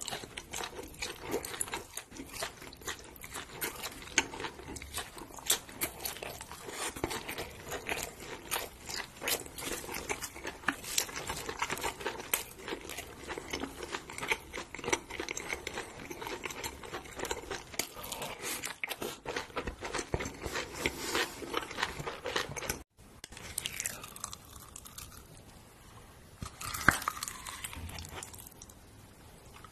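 Close-miked chewing and crunching of grilled intestines and squid, with wet mouth sounds. After a cut about 23 seconds in it turns quieter: a spoon scoops chili sauce from a glass jar onto rice, with one sharp knock near the end.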